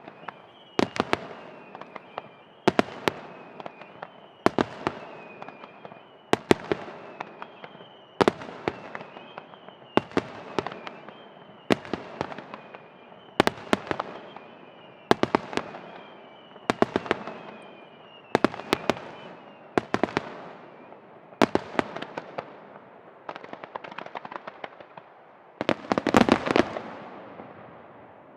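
Aerial fireworks shells bursting in a steady series, a cluster of sharp bangs about every second and a half to two seconds. For the first two-thirds a high whistling tone falls in pitch between bursts. About 26 seconds in comes a dense run of loud bangs.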